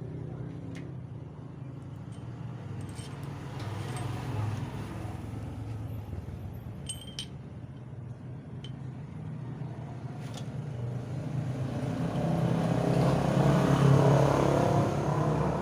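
Passing road traffic: a steady motor rumble that swells as one vehicle goes by, loudest near the end. A few light metal clinks come in between.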